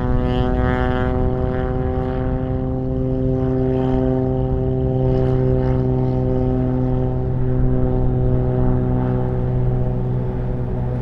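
Propeller aircraft engine running at a steady pitch: a low hum with an even stack of overtones that holds level throughout.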